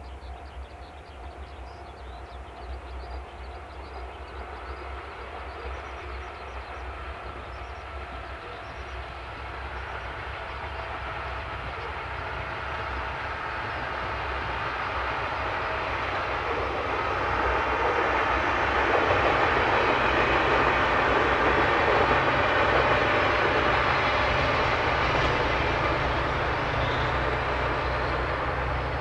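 Diesel-hauled trolley train approaching along the track: a steady low engine drone under rising wheel-and-rail noise that grows louder for about eighteen seconds, stays loudest for several seconds, then eases slightly near the end.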